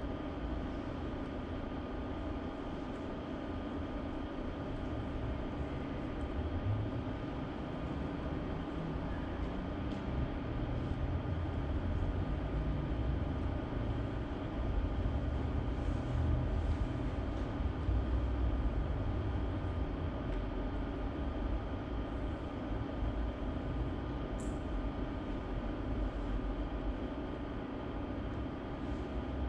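Steady mechanical hum over a low rumble that swells a little midway, with no speech.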